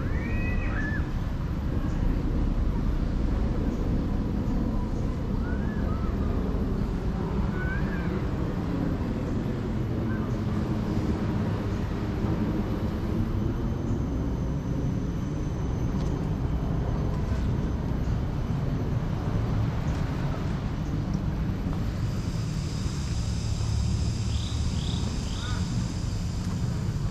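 Outdoor ambience: a steady low rumble with a few short chirping bird calls, and a high, steady whine joining in for the last few seconds.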